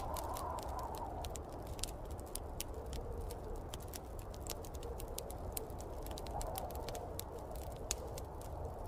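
Wood fire crackling with many irregular sharp pops, over a steady rush of snowstorm wind that slowly swells and eases.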